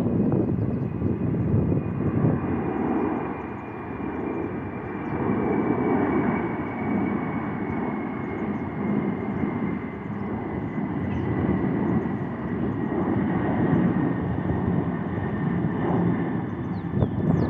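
Boeing 747-400 freighter's four jet engines at takeoff power as it departs, a steady rumble with a faint whine that slowly falls in pitch.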